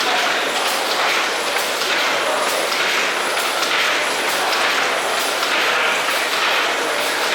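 William Roberts and Sons compound steam mill engine running steadily, its working noise pulsing in a regular beat a little more than once a second.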